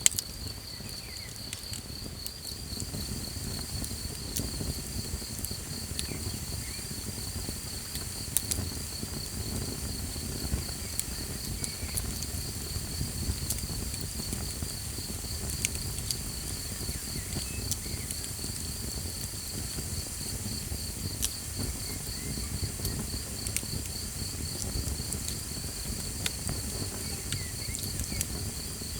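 Small campfire burning with a low crackle and scattered sharp pops. Over it runs a steady, high, rapidly pulsing trill of night insects, such as crickets.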